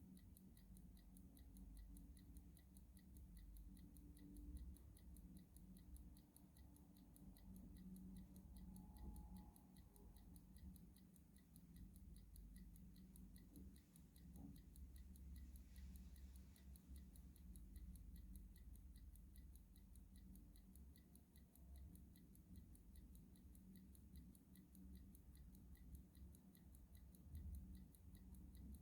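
Clock ticking faintly and steadily, an even run of short ticks, over a low background hum.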